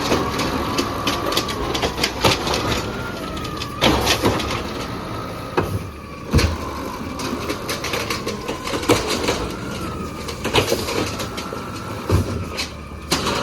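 Peterbilt 320 arm-and-clamp garbage truck working at a pickup: a steady hydraulic whine rises and falls in pitch over the engine's rumble, broken by a series of loud bangs and knocks.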